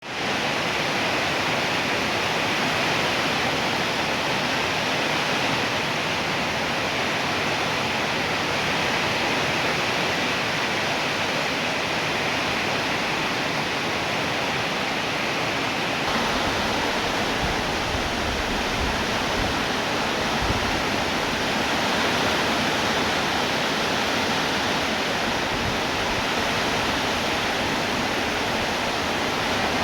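Steady heavy rainfall, an even hiss. About halfway through, a low rumble joins in underneath.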